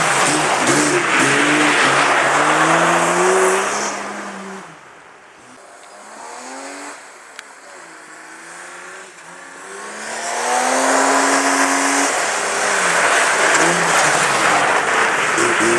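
BMW 3 Series (E21) ice-racing car's engine revving hard as it slides past close by, the pitch climbing and dropping with the revs. It fades to a distant hum for several seconds, then comes back loud and revving as the car returns towards the camera.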